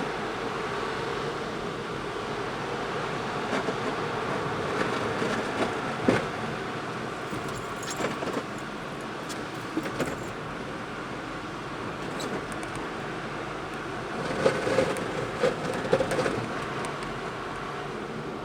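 Steady road noise inside a moving car, with a few light knocks and rattles, including a short cluster of them near the end.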